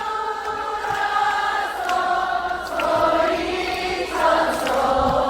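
A large crowd singing a trot melody along in unison, holding long notes, over the band's backing music.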